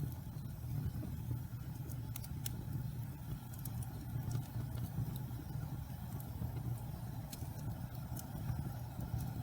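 Damp pine logs burning in a fireplace: a steady low rumble of the fire with scattered sharp crackles and pops from the heating wet wood.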